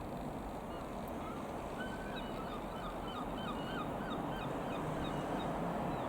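A bird calling in a quick run of short, repeated notes for a couple of seconds, over a steady low rumble that slowly grows louder.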